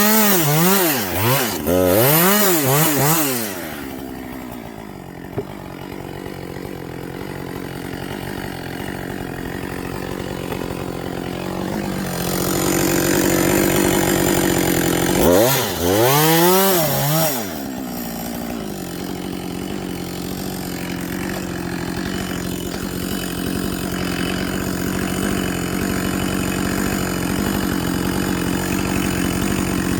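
Husqvarna 562 XP two-stroke chainsaw revving up and down several times, dropping to a steady idle, then revving again a couple of times about halfway through before settling back to idle. The saw is running on a dull chain that should have been replaced.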